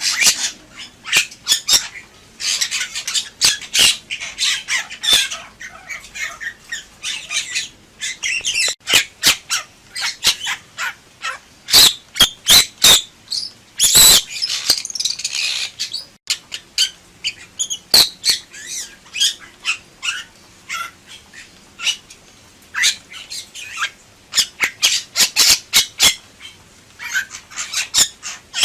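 Bali myna in full song: a rapid, irregular string of harsh squawks, sharp clicks and short chattering notes, with a longer harsh call about fourteen seconds in.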